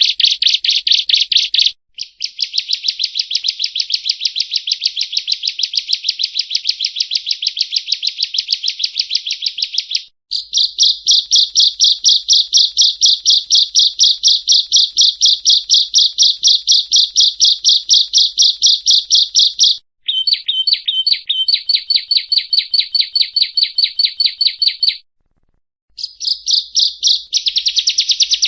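Prenjak rowo (yellow-bellied prinia) singing a loud, fast chattering trill of rapidly repeated high notes. It comes in long unbroken runs with brief breaks about 2, 10 and 20 seconds in, and a pause of about a second near the end.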